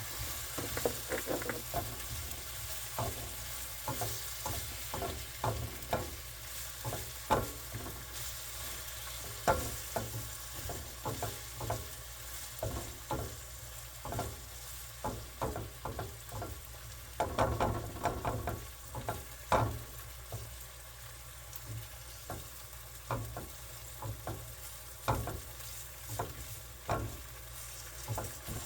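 Meat frying in a pan: a steady sizzle with frequent clicks and scrapes from a utensil stirring and turning it.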